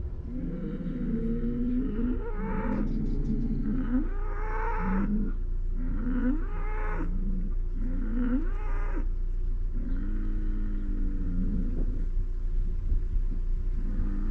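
A series of short pitched animal calls, several overlapping, each arching up and down, coming every second or two over a steady low hum.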